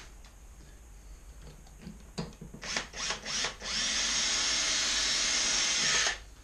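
Electric drill drilling a rivet hole through a motorcycle exhaust can. A few short blips of the drill come about two seconds in, then a steady run of about two and a half seconds that cuts off suddenly near the end.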